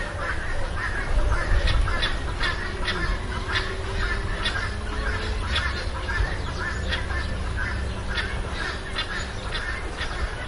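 Animal calls: many short squawks and honks in quick succession over a steady low rumble.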